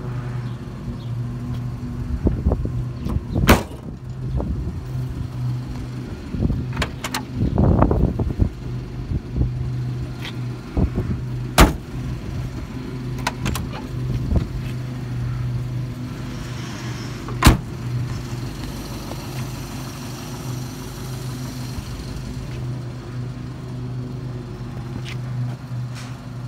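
1950 Oldsmobile 88's 303 Rocket V8 idling steadily, with several sharp clunks and knocks as the car's doors and trunk are handled.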